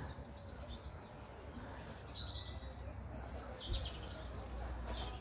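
Small birds chirping in a few short, high calls over low, steady outdoor background noise.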